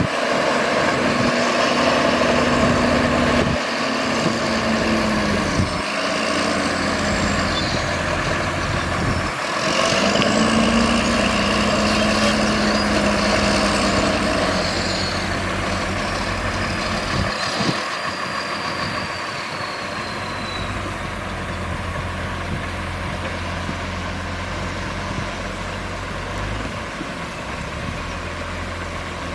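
Diesel engines of heavy earthmoving machinery running steadily. A high whine rises and falls a couple of times in the first half, and the engine sound changes abruptly several times.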